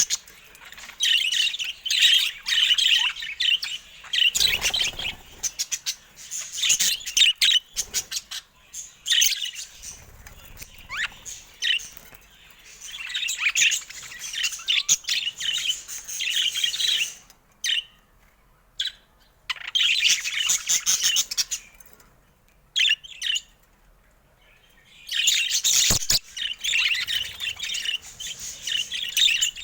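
Budgerigars chattering and warbling in bursts of rapid, high-pitched chirps, with a few short pauses. A single sharp click sounds near the end.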